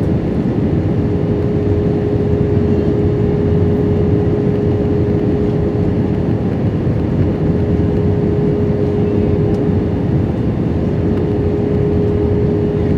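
Airbus A320 cabin noise in flight on descent: a steady roar of airflow and the IAE V2500 engines, with a steady hum held on one pitch.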